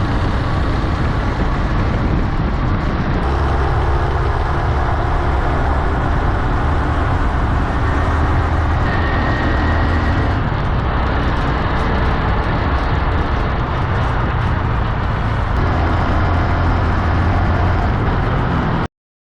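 Honda Hunter Cub motorcycle's single-cylinder engine running under way, mixed with steady wind rush; it cuts off suddenly near the end.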